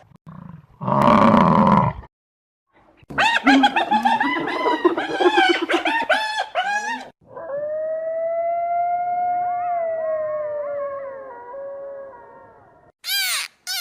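A run of animal calls: a short rough call about a second in, then about four seconds of quick, rising-and-falling yelping calls, then one long drawn-out howl that slowly falls in pitch and fades, with a second wavering voice over it.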